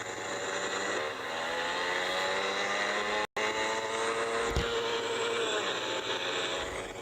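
Motorcycle engine running while riding, its pitch climbing from about a second in and dropping near the end, over steady wind noise. The sound cuts out completely for a moment a little over three seconds in.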